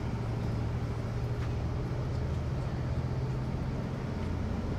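Tour bus engine and road noise heard from inside the moving bus: a steady low hum whose pitch drops a little about four seconds in.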